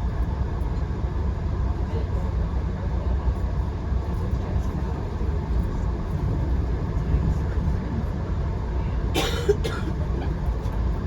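Steady low rumble of a moving passenger train, heard from inside the coach. About nine seconds in comes a short, sharp noise in two quick parts.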